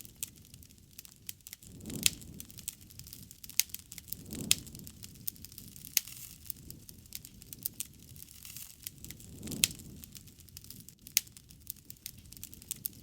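Wood fire crackling, with many sharp, irregular pops and a few soft, low rushes of flame that swell and fade.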